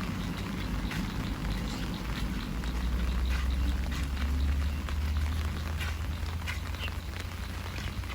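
Heavy rain falling steadily, with many separate drops ticking close by. A low rumble swells up a few seconds in and fades again toward the end.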